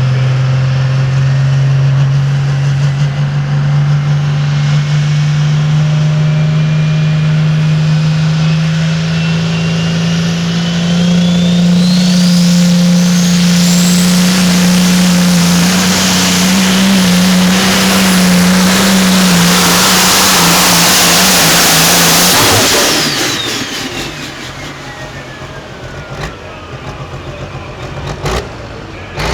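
Turbocharged diesel engine of a pulling vehicle running hard under load down the track. Its pitch climbs slowly and a turbo whine rises to a high whistle. About 22 seconds in the engine shuts off and the turbo whine winds down.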